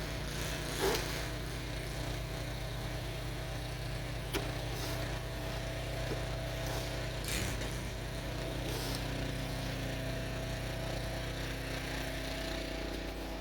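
A steady low mechanical hum, like a motor running, with three short clicks or knocks: about one second in, near four and a half seconds, and past seven seconds.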